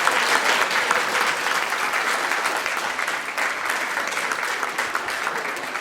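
Audience applauding, a steady clatter of many hands clapping that begins to die away near the end.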